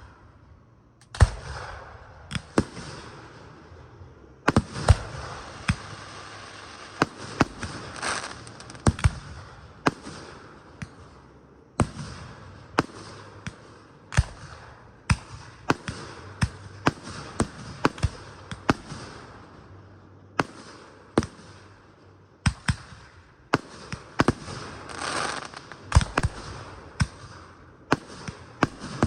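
Fireworks display: a rapid run of sharp shell bursts, about one or two bangs a second, over a continuous hiss that swells about eight seconds in and again near the end.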